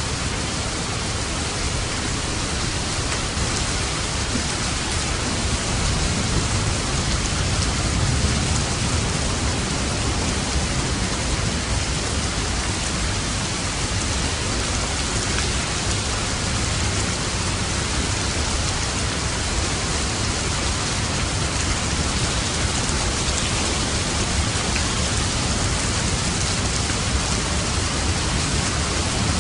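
Steady, dense rainfall, with a low rumble of thunder swelling a few seconds in.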